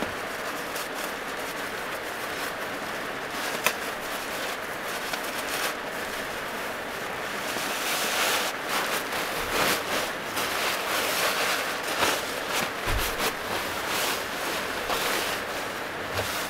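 Heavy rain drumming steadily on the roof and body of a small van, heard from inside. About halfway in, louder irregular rustling of a sleeping bag being pulled over the legs joins it, after a single sharp click a few seconds in.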